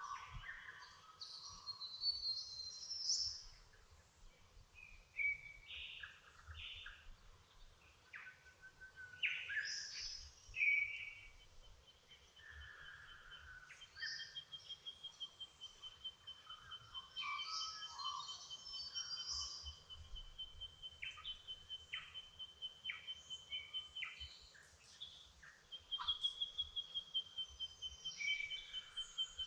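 Dawn chorus of several birds singing and chirping, with overlapping whistles and short calls. A long run of quick, evenly repeated notes at one steady pitch, about four or five a second, starts near the middle, pauses briefly, and comes back near the end.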